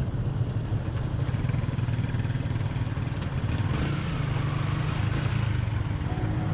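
Motorcycle engine running steadily while waiting in traffic at a junction.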